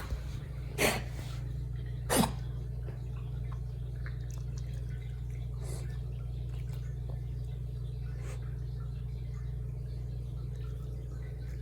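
Shiba Inu making short, sharp breathing sounds: two louder bursts in the first couple of seconds, then a few fainter ones, over a steady low hum. They are part of a laboured-breathing episode of the kind being checked as reverse sneezing or tracheal collapse.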